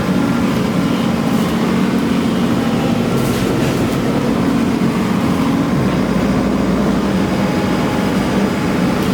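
Excavator's diesel engine running steadily under load, a loud, even drone.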